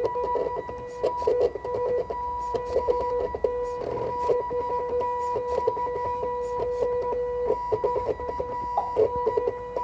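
Stepper motors of a small homemade CNC pen plotter running: a steady whine, broken again and again by clusters of rapid clicking as the axes move.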